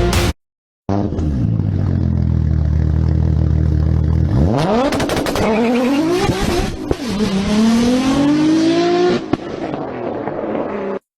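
An engine running steadily at a low pitch, then revving up about four seconds in, its pitch rising, dropping and rising again, like a vehicle accelerating through a gear change.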